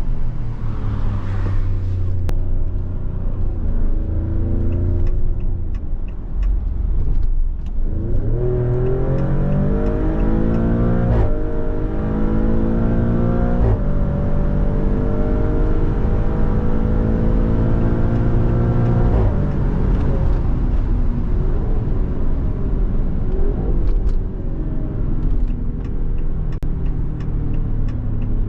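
Maserati Grecale Trofeo's twin-turbo V6 pulling hard under full throttle, rising in pitch through the gears with two quick upshifts about 11 and 14 seconds in. The engine then holds a steady high note before the driver lifts off about 19 seconds in and it settles to a lower cruise.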